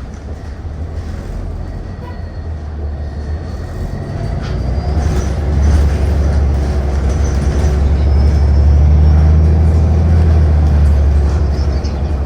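City bus's engine and drivetrain rumbling, heard from inside the cabin while the bus is moving. The low rumble grows louder from about four seconds in as the bus picks up, then eases slightly near the end.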